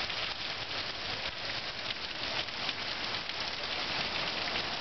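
Heavy downpour: a steady hiss of rain pouring onto concrete and rooftops.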